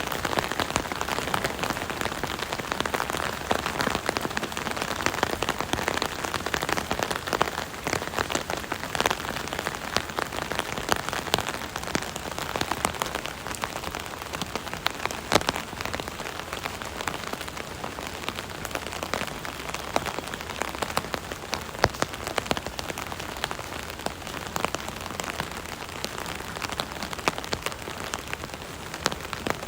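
Steady rain pattering on an umbrella canopy, a dense hiss of drops with many separate sharp taps of larger drops striking the fabric.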